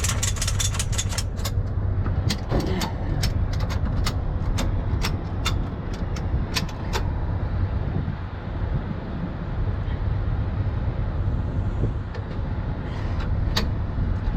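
Heavy diesel truck engine idling steadily, with a quick run of sharp metallic clicks in the first second, then slower clicks about every half second until about seven seconds in, and one more click near the end.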